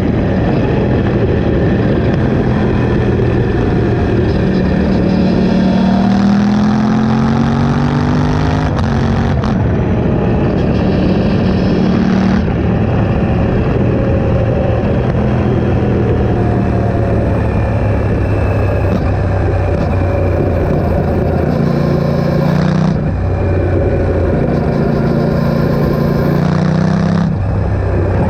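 Aprilia RS660's parallel-twin engine running through a Mivv Delta Race exhaust with the dB killer in and no catalytic converter. Its pitch climbs steadily in places, with three sudden breaks in the sound: one a little before halfway and two near the end.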